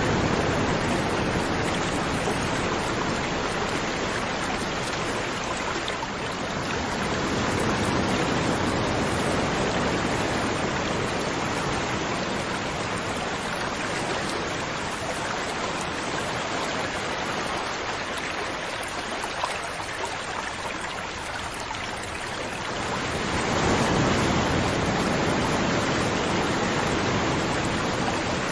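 Rushing water: a steady wash of noise that slowly swells and eases over several seconds at a time.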